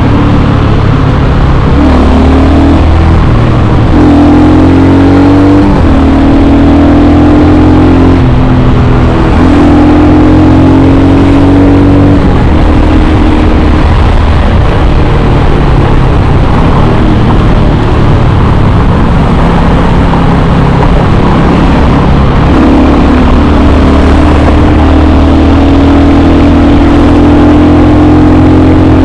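Royal Enfield Hunter 350's single-cylinder engine running loud while the motorcycle is ridden. The engine note holds steady for a few seconds at a time, breaks, and picks up again at a shifted pitch, with a long steady stretch near the end.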